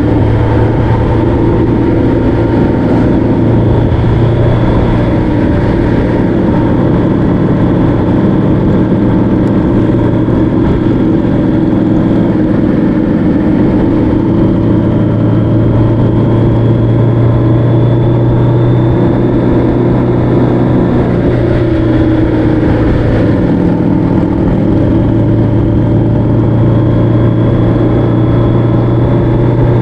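Motorcycle engine running steadily at cruising speed, its note holding nearly level throughout.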